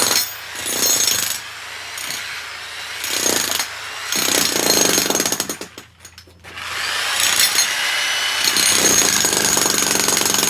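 Power jackhammer hammering, breaking up concrete, stopping briefly about six seconds in and then starting again.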